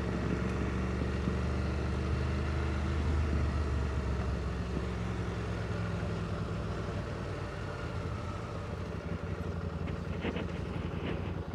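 Motorcycle engine running steadily at low revs while the bike rolls gently down a loose farm lane, with wind noise over the helmet microphone.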